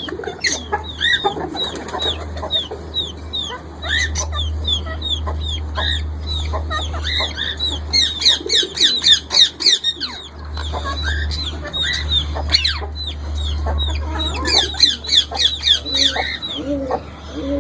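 Baby parrot chicks chirping: many short, high chirps in quick succession, thickest in the middle and again near the end, over a steady low hum.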